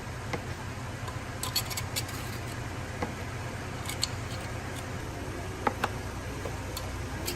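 Engine idling with a steady low hum, with scattered light clicks and taps over it.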